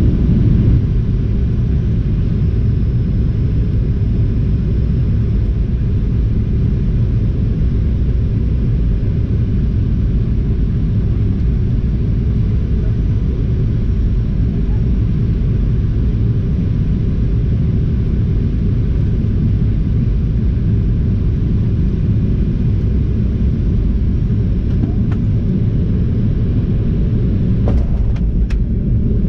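Steady low rumble of a Boeing 737-800 cabin, even throughout, with a few faint clicks near the end.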